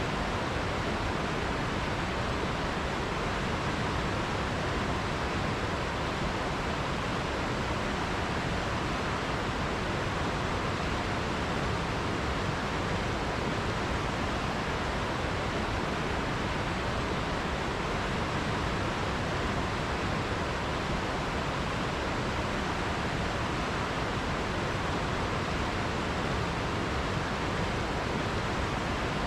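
River water rushing in an unbroken, even stream.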